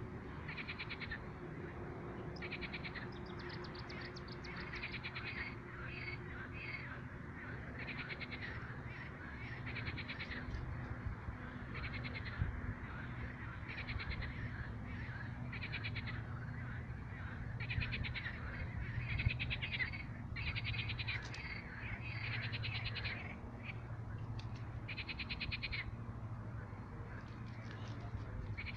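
A chorus of frogs croaking: short pulsed, rattling calls repeat about once a second throughout, over a steady low hum.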